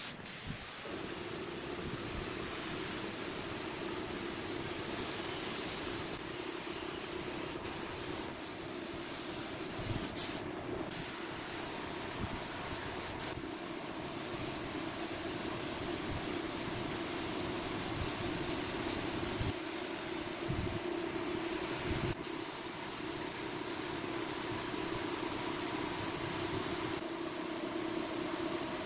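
Steady mechanical hiss over a constant low hum, broken by a few brief clicks.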